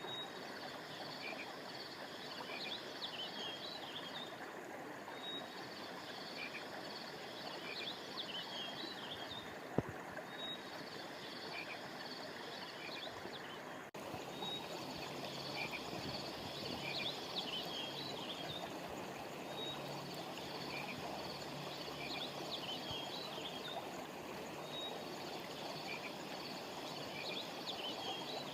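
Frogs calling in repeated trains of a couple of seconds each over the steady rush of a stream. A single click about ten seconds in, and a brief break in the sound about halfway through.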